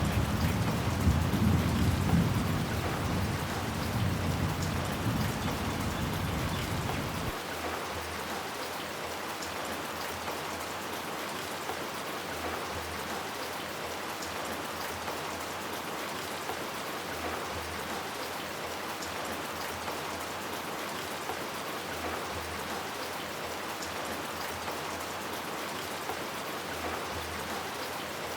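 Steady heavy rain falling in an even hiss, with a low rumble of thunder under it for the first seven seconds or so that stops suddenly, leaving the rain alone.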